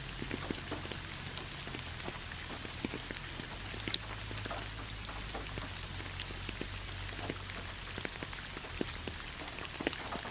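Steady rain falling, with many separate drops pattering irregularly on a surface over a constant hiss of rainfall.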